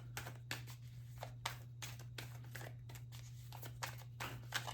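Tarot cards being shuffled and handled: a quick, irregular run of soft card flicks and slaps, several a second, over a steady low hum.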